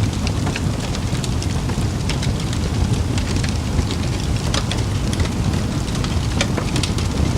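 Campfire crackling: frequent sharp pops and snaps scattered irregularly over a steady low rumble of the fire.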